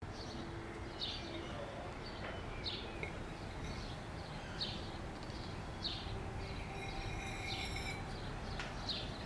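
Birds chirping: short, sharp falling calls repeated about every second or so, with one longer, steadier call about two-thirds of the way in, over a steady low background noise.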